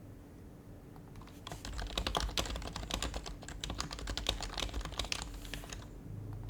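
Fast typing on an HHKB Professional HYBRID Type-S keyboard, whose silenced Topre switches give soft, muted key presses. The typing starts about a second in and stops near the end, when a low hum comes in.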